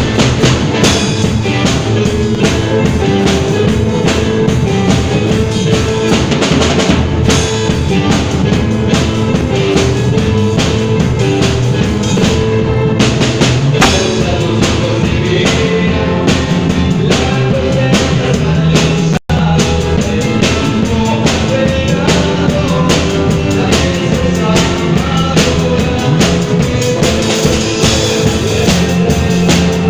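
A band playing steadily at rehearsal, with drum kit and bass carrying a regular beat and no clear vocals. The sound cuts out for an instant about two-thirds of the way through.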